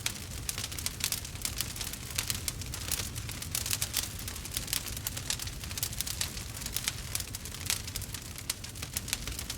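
Wood fire burning, with a dense, irregular run of crackles and small pops over a low steady rumble of the flames.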